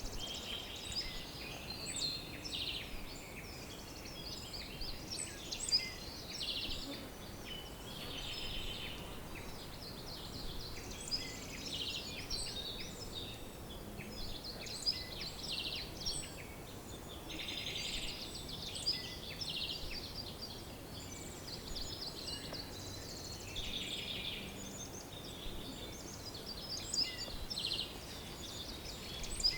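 Several birds singing at once in a steady chorus of overlapping chirps and rapid trilled phrases, with short loud notes standing out every few seconds over a faint background hiss.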